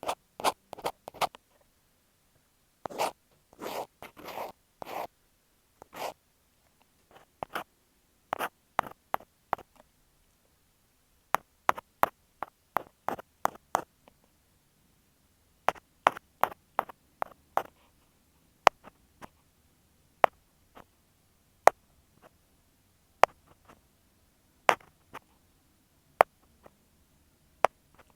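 Ear pick scraping and clicking directly on an earphone microphone: quick clusters of short scratchy strokes, thinning out after the middle into single crisp clicks about every second and a half.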